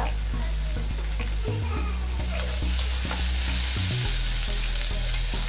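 Onion, garlic and ginger paste sizzling in hot mustard oil in a karahi on a gas burner, with a spatula stirring and scraping against the pan.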